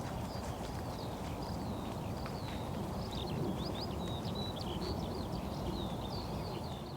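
Steady rain falling on a camping tarp in woodland, with a few sharp drip taps, and a bird singing a run of short chirping, whistled notes over it.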